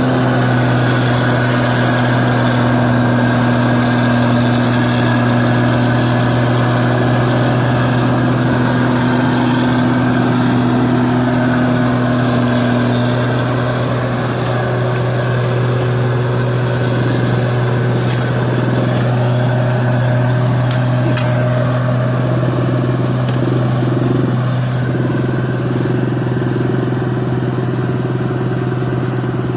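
New Holland 8060 combine harvester running steadily as it harvests rice, a continuous low engine and machinery hum with steady tones above it. One higher tone in the hum drops away about halfway through.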